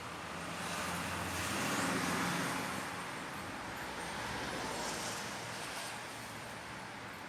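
Road traffic noise: a vehicle passing, its rushing noise swelling to a peak about two seconds in and then fading, with a smaller swell later.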